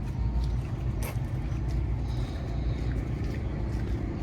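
Diesel truck engine running with a steady low rumble, with a few faint clicks over it.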